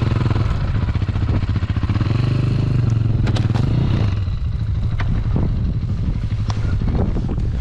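Dirt bike engine running and revving, its pitch rising and falling, with scattered sharp clicks and knocks in the second half.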